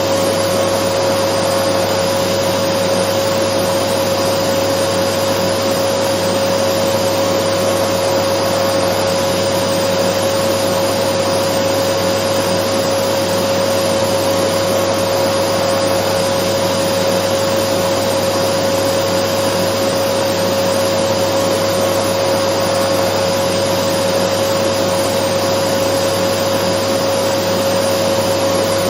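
Dyson vacuum cleaner running steadily: an unchanging rushing motor-and-airflow noise with a constant whine.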